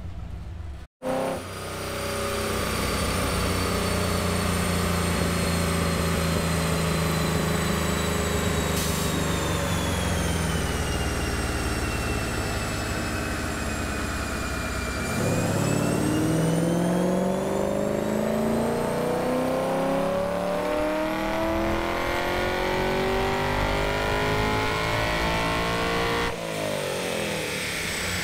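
LS V8 in a swapped Nissan 350Z running in gear on a chassis dyno. About halfway through, the engine revs up smoothly in one long wide-open pull and backs off near the end. It is a power run on a new E85 tune.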